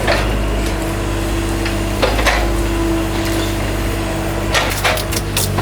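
A steady low machine hum, with scattered knocks and clatter about two seconds in and again near the end.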